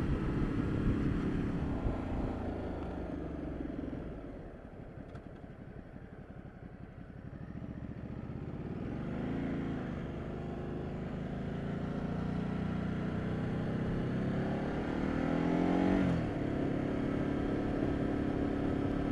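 Ducati Multistrada 1200 twin-cylinder engine under way, heard with wind and road noise. It eases off and quietens about four seconds in, then revs up again twice, the second climb ending in a gear change near the end.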